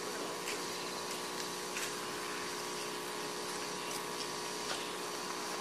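Steady hum and hiss of the room, with a few faint clicks scattered through it.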